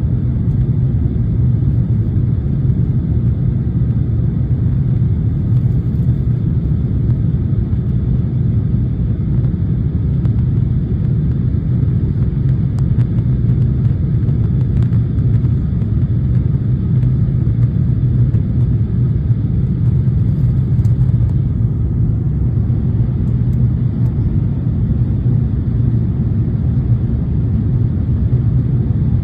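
Airliner cabin noise during the climb after takeoff: a steady low rumble of the engines and rushing air that holds at an even level throughout.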